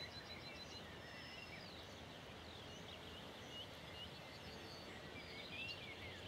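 Faint songbirds chirping and trilling, with quick repeated notes near the start, over a steady low background hiss of open countryside.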